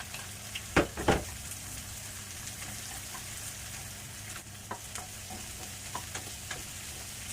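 Crushed garlic and onion sizzling in hot oil in a pan, stirred with a cooking utensil that knocks hard against the pan twice about a second in, followed by lighter clicks and scrapes.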